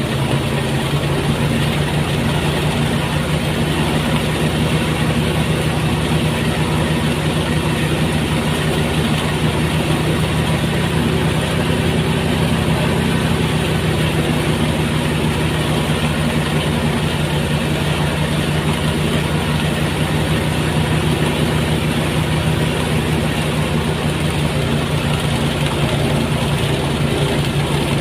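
Motorised rice thresher running steadily: an even engine drone with a constant noisy rush over it.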